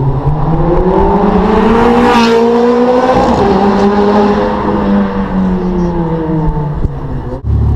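High-performance car engine accelerating hard past, its pitch climbing to a loud peak about two seconds in, then dropping as the car goes by and pulls away down the street. Near the end it cuts off abruptly to a different engine rumbling steadily at low pitch.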